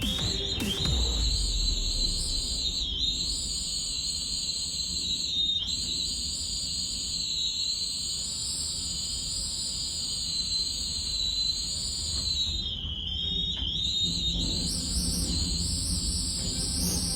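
Storm wind rumbling and buffeting the microphone, with a high, slowly wavering whistle over it.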